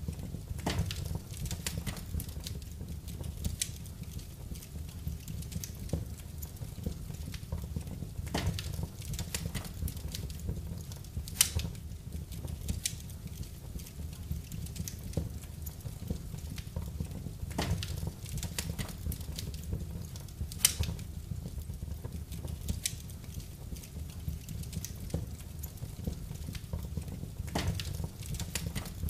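Wood fire burning in a fireplace: a steady low rumble from the flames with irregular crackles and pops, two of them sharper than the rest, about a third and two-thirds of the way through.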